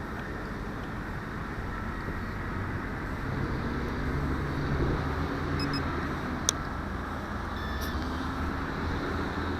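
Steady outdoor rumble of wind and distant road traffic, with faint passing-vehicle hums that swell and fade, and one sharp click about six and a half seconds in.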